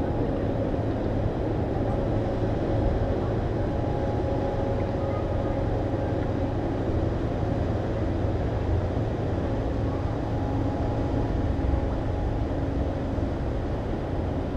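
Steady low drone of a 1,000-foot Great Lakes freighter's four 20-cylinder General Motors diesel engines as the ship passes, a constant rumble with a few held tones over it.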